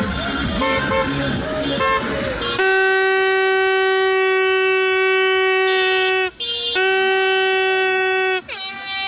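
Music and street noise, then about two and a half seconds in a horn sounds in one long steady blast. It breaks off briefly around six seconds, sounds again, and its pitch sags as it dies away near the end. This is celebratory honking in a car parade.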